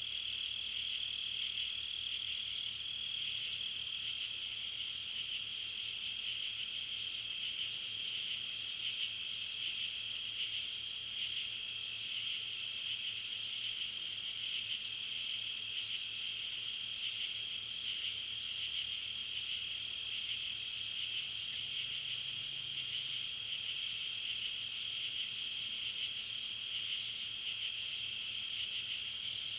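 A dense, steady chorus of insects chirring at night, a continuous high-pitched trill with slight pulsing, like crickets.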